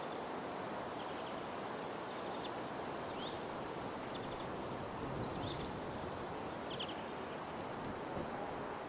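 A bird repeating a high, stepped, descending whistled call three times, about three seconds apart, over a steady outdoor hiss.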